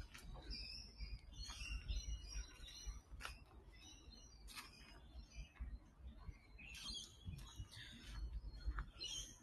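Birds chirping and calling, faint, in many short scattered calls, over a low rumble.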